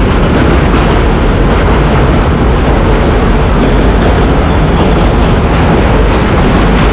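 Loud, steady running noise of two trains side by side: a freight train's wagons rolling a few feet from a moving passenger coach, with wheel and rail noise from both and wind rushing over the microphone.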